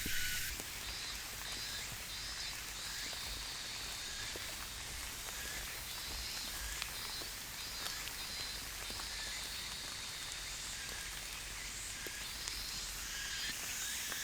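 Outdoor ambience: a steady hiss with repeated short bouts of high-pitched trilling animal calls, each about a second long, and a few faint clicks. Background music cuts off in the first half-second.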